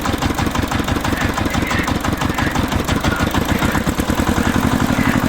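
Tractor engine idling with a steady, rapid chugging of about ten beats a second.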